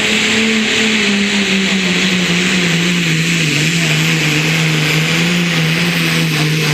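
A competition puller's engine running at full throttle as it drags the weight-transfer sled down the track. Its revs sag slowly as the sled loads it down, over a loud hiss.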